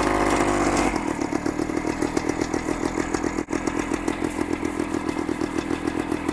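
Kawasaki F11 250 two-stroke single-cylinder engine, cold-started on the first kick, held at a brief rev and then dropping about a second in to a steady idle with an even popping rhythm.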